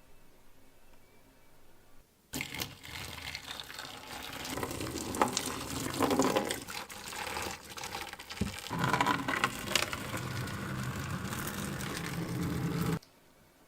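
Running water, starting suddenly about two seconds in and cutting off suddenly near the end.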